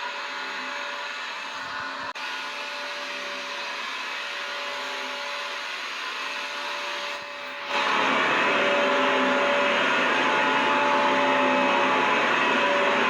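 Vacuum cleaner running steadily: a dense rushing hiss with a faint motor whine. It gets noticeably louder and brighter about eight seconds in, then holds steady.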